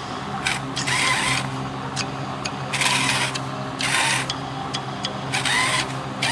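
A small motor hums steadily, with about five short rasping bursts over it, roughly one a second.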